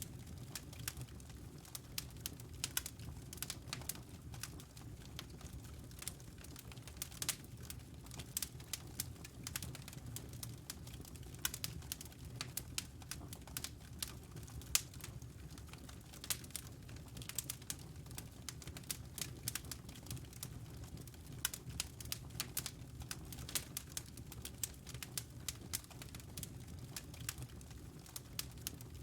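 Wood logs burning in a fireplace, crackling with dense, irregular sharp pops and snaps over a steady low rumble.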